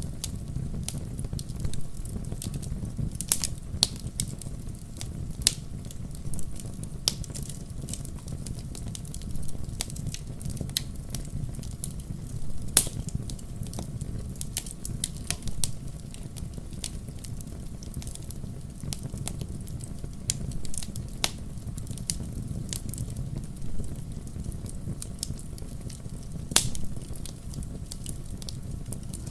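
Wood campfire burning with a steady low rumble of the flames and irregular sharp crackles and pops from the burning wood, a few louder snaps among them.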